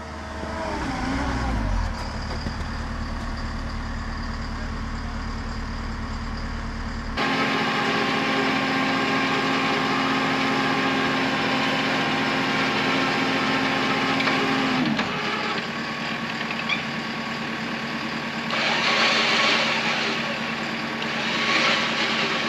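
Jeep engine running while its winch pulls hard on a heavy load through triple snatch blocks: a steady motor whine comes in about seven seconds in and winds down with a falling pitch about eight seconds later, as the stuck skid steer fails to come free. Two bursts of hiss near the end.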